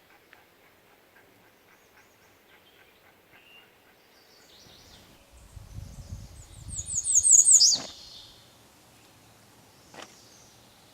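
A songbird sings close by: a quick run of high, repeated notes that ends in a downslurred note, with fainter bird song before it and a low rumble beneath it. A single sharp click comes near the end.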